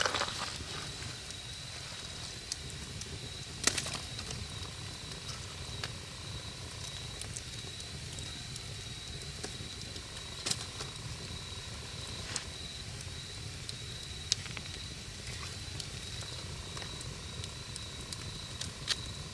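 Wood fire burning, with a low steady rush of flames and sharp crackling pops every few seconds, the loudest at the very start and about four seconds in. A thin steady high tone runs underneath.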